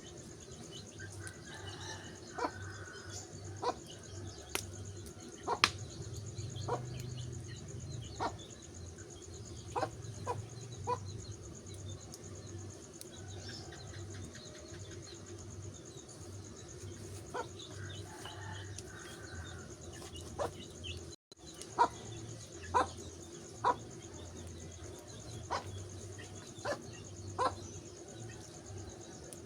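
Wood fire crackling, with sharp irregular pops about every second or so over a steady background hiss and low hum. The sound drops out for an instant about two-thirds of the way through.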